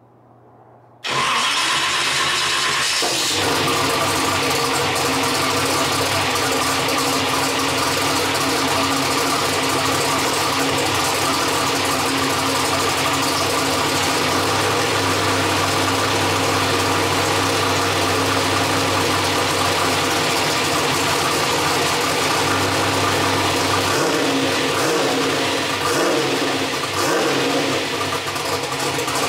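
A turbocharged, methanol-fuelled LS V8 starts for the first time about a second in: it cranks, catches within a couple of seconds and settles into a loud, steady idle. The idle wavers slightly in pitch a few times near the end.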